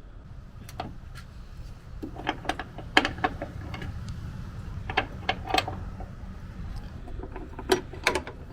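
Irregular sharp clicks and taps of small metal hardware and hand tools being handled while a tailgate dampener's bolts and bracket are fitted, over a steady low rumble.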